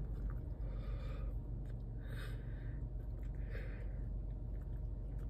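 Muffled chewing and soft breaths through a full mouth covered by a hand: a few quiet puffs of breath about a second apart, over a steady low hum.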